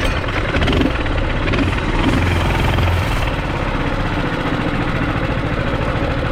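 Mini bike's small engine running steadily while the bike is ridden.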